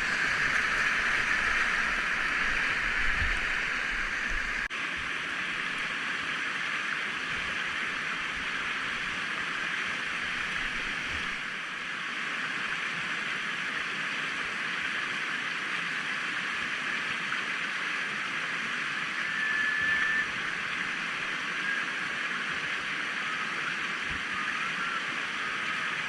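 Steady rush of a whitewater river running low, its water flowing and gurgling without a break.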